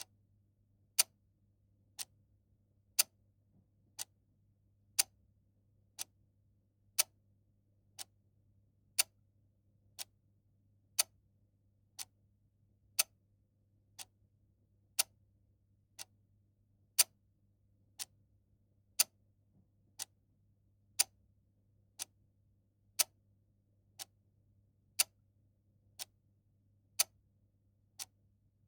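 Clock ticking steadily once a second, the ticks alternating louder and softer in a tick-tock pattern, over a faint low hum.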